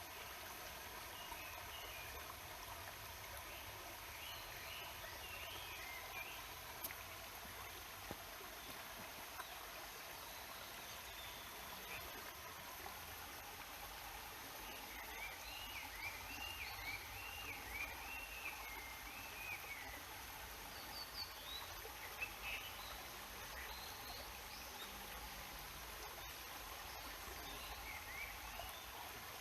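Stream water flowing steadily, with a songbird singing short warbling phrases over it several times, the longest run about halfway through.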